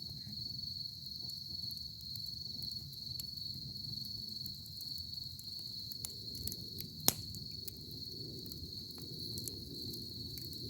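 Wood campfire crackling with scattered sharp pops, one loud pop about seven seconds in, over a steady high-pitched insect trill and the low rush of the flames.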